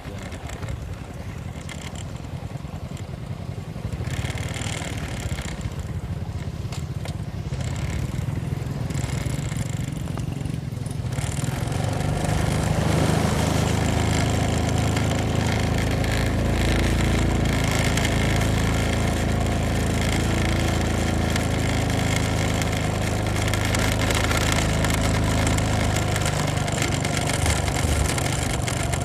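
Motorcycle engine running while riding; about twelve seconds in it grows louder and settles into a steady, even drone under load.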